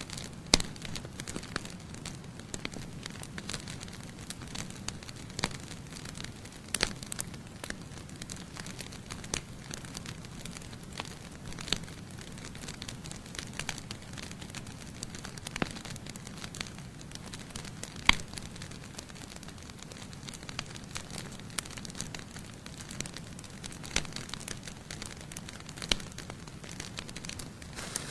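Wood campfire burning, crackling steadily with irregular sharp pops over a low rush of flame; one louder pop about half a second in and another about 18 seconds in.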